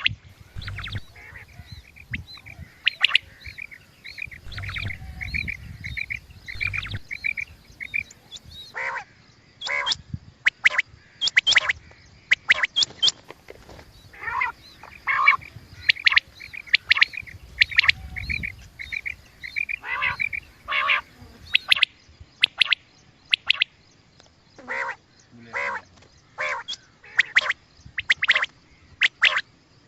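Quail calls used as a hunting lure: short, sharp calls repeated many times, with two stretches of rapid repeated notes.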